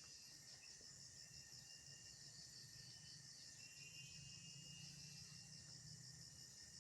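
Faint chorus of crickets and other insects: a high, rapid, evenly pulsing trill over a steady thin whine, with short buzzing trills coming and going.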